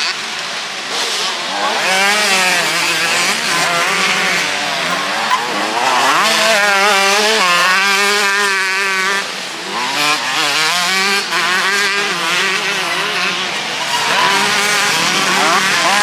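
Motocross bikes racing on the track, their engines revving up and down in pitch, with the loudest, steadiest run from about six to nine seconds in.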